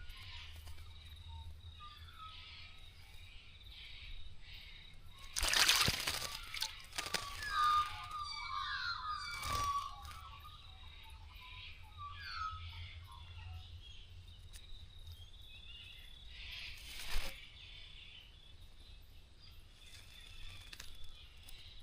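Small birds bathing in a bird bath: two brief flurries of wing-flapping and splashing, about five seconds in and again about seventeen seconds in. Short chirping bird calls come between them.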